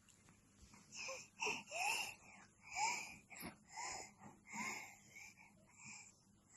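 A baby making a string of short, squeaky, wheezy breath sounds, a little more than one a second, starting about a second in.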